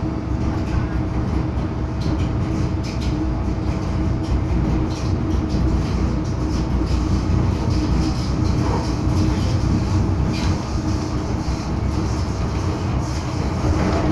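MTR M-Train electric multiple unit running at steady speed, heard from inside the passenger car: a constant rumble of wheels on the rails with a steady hum and scattered light clicks.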